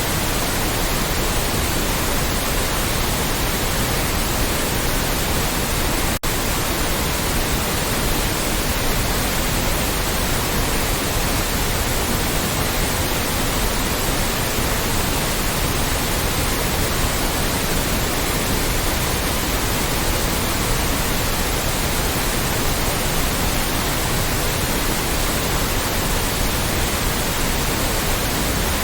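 Loud, steady white noise, an even hiss spread across all pitches, with a momentary dropout about six seconds in.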